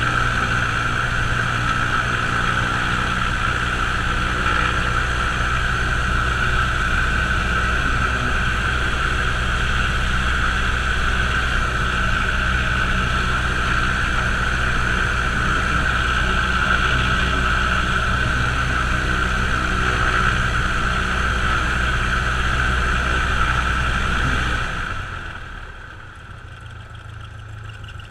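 Cessna's single piston aircraft engine running steadily at high power, heard from the cockpit, then throttled back about 25 seconds in, dropping to a much quieter, lower idle.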